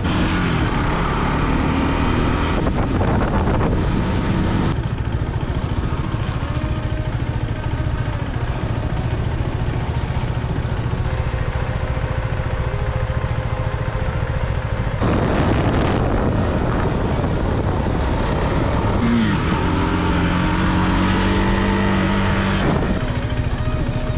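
Husqvarna Svartpilen 401's single-cylinder engine running under way, its exhaust note rising and falling with the throttle, with rushes of wind noise a few seconds in and again about halfway through.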